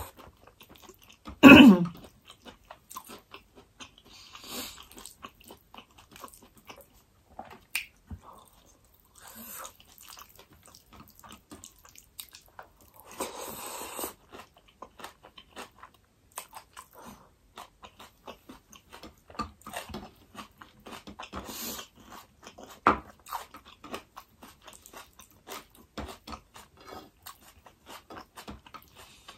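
A person chewing and smacking their lips close to the microphone while eating with their fingers, with many small wet clicks. There is a brief voiced hum about a second and a half in, and a sucking slurp about thirteen seconds in.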